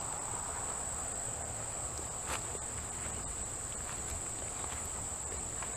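Steady high-pitched insect chorus, with a single soft click about two seconds in.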